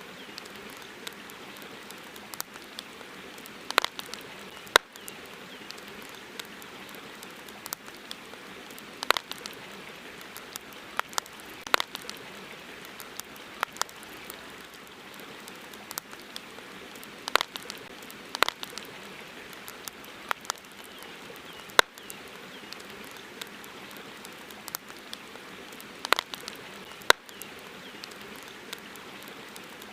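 Campfire crackling: sharp, irregular pops and snaps of burning wood over a steady hiss.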